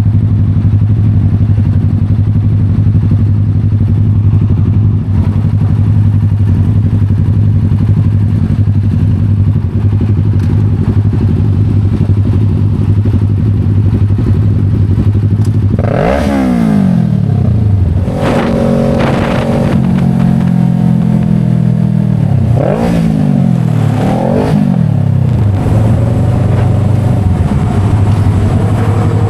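Motorcycle engine running at a steady pitch, then revving up and down several times in the latter half, with the pitch sweeping and falling between revs.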